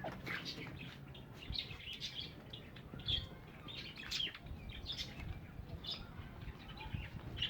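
Pet parrots chirping, scattered short calls throughout.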